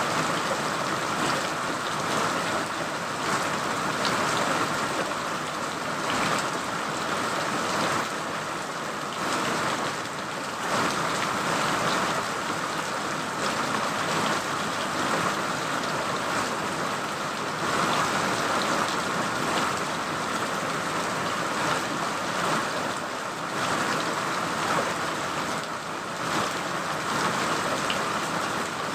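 Steady rain falling, a dense even hiss with scattered drops pattering on a surface.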